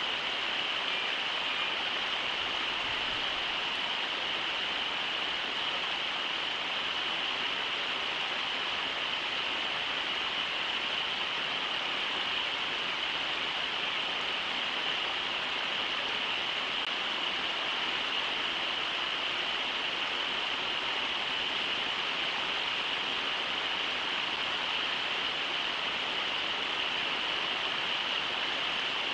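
Steady rush of river water running over shallow riffles, an even, unbroken noise with no separate events.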